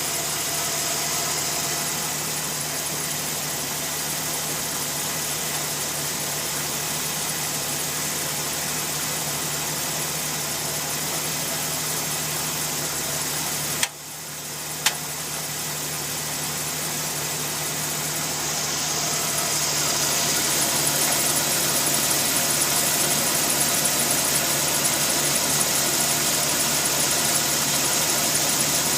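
Dodge Ram SRT-10's 8.3-litre V10 running steadily, with a crackling (Knacken) that the owner traced to the exhaust and catalytic converters. About halfway through the sound briefly drops out, followed by one sharp click, and it grows a little louder in the last third.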